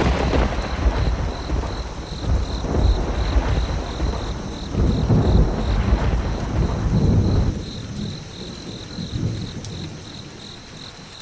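A loud low rumble that eases off about seven and a half seconds in, over a faint, evenly pulsing insect chirp.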